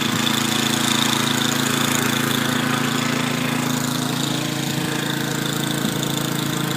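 Snowblower's small gasoline engine running steadily at constant speed.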